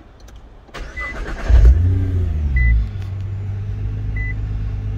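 Nissan GT-R's 3.8-litre twin-turbo V6 started with the push button: the starter cranks briefly about a second in, the engine catches with a loud rev flare that falls away, then settles into a steady idle. A short high chime sounds three times, about a second and a half apart.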